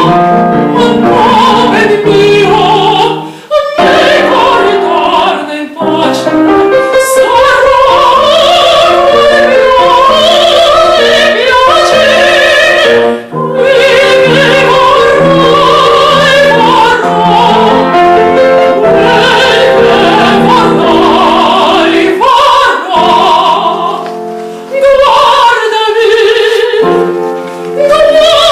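A Russian romance sung in classical, operatic style with vibrato, accompanied by piano, with short breaths between phrases.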